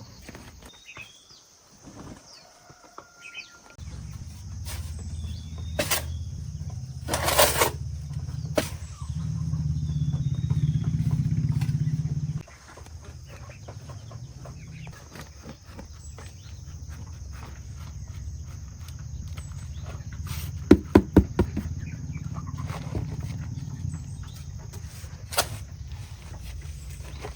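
A steady low rumble starts a few seconds in and is louder for a few seconds in the middle. Faint bird chirps come before it, and a few sharp knocks and clicks come through it.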